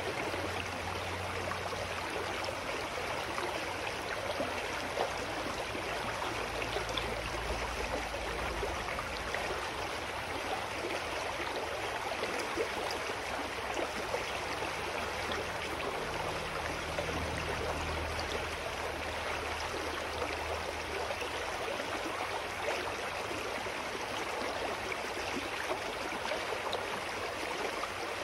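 Clear mountain stream flowing with a steady rush of water. A faint low rumble comes and goes underneath it.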